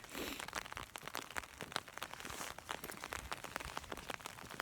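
Light rain: many small drops ticking irregularly on a surface close to the microphone.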